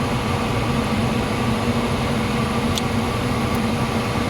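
Steady mechanical hum of a Carrier gas-fired heating unit running while it retries ignition after an ignition lockout. Two faint sharp ticks a little under a second apart come just past the middle.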